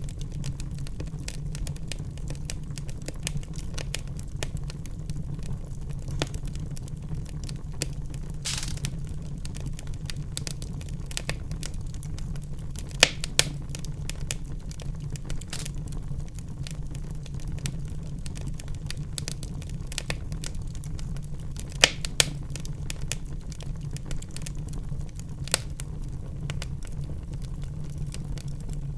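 Wood fire in a fireplace crackling over a steady low rumble, with a few louder sharp pops scattered through and one brief hiss.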